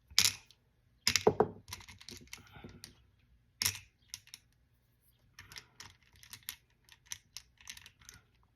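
Small hard objects set down and clicked into place on a hard craft piece: scattered sharp clicks and taps, the loudest in the first few seconds, then a quicker run of light ticks in the second half.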